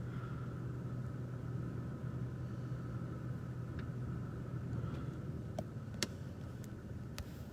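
Steady low hum of a car's engine and road noise heard from inside the cabin, with a few light clicks in the second half.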